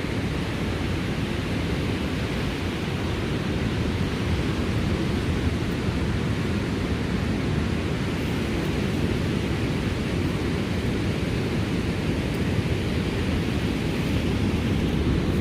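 Steady low rumble of sea breeze blowing on the microphone, without pause or change.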